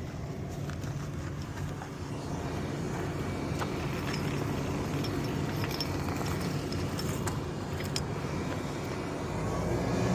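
A vehicle engine running steadily under the recovery pull, with scattered light metallic clicks. The engine note grows a little louder near the end.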